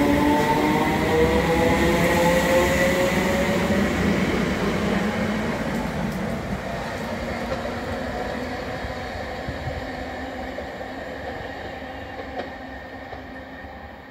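ScotRail electric multiple-unit train pulling away from a station platform. Its motors whine, rising in pitch over the first few seconds as it gathers speed, and the running noise fades steadily as it draws away.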